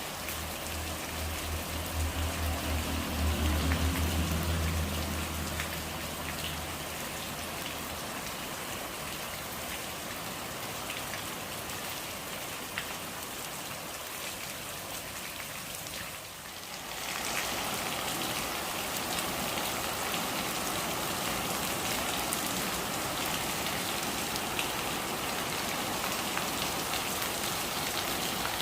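Steady rain falling. A low rumble runs under it for the first several seconds, loudest a few seconds in. About halfway through, the rain briefly drops away, then carries on a little louder.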